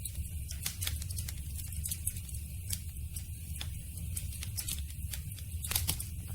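Campfire crackling: irregular sharp pops and snaps of burning wood over a low steady rumble, with one louder pop near the end.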